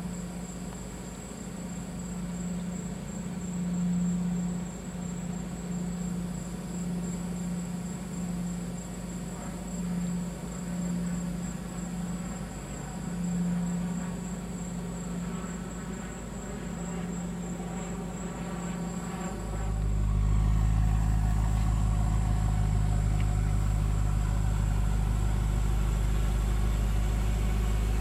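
BMW M5 (F10) 4.4-litre twin-turbo V8 idling steadily. About 19 seconds in it becomes suddenly louder and deeper, a steady low rumble from the exhaust.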